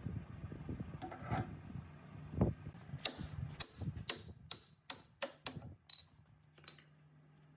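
A series of about ten sharp metallic clicks or taps over roughly four seconds, irregularly spaced, after low rumbling handling noise.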